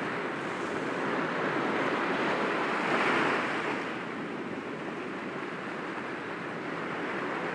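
Sea waves breaking gently against rocks: a steady wash of surf that swells as a wave breaks about three seconds in, then settles back.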